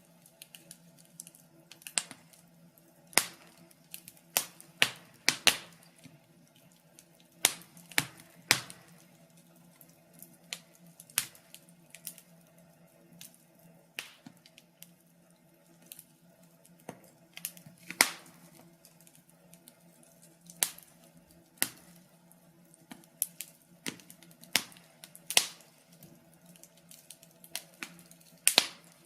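Wood fire crackling: sharp irregular pops and snaps, a few seconds apart or in quick clusters, over a faint steady low hum.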